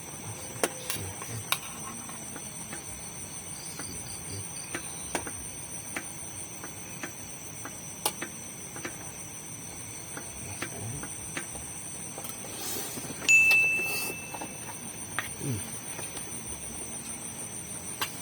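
Night insect chorus, a steady high-pitched buzz, with scattered small clicks and knocks. About 13 seconds in, a short high-pitched tone lasts about a second and is the loudest sound.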